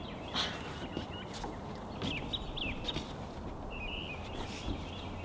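Small birds chirping: short, high calls that glide in pitch, scattered a few times over a steady outdoor background hiss.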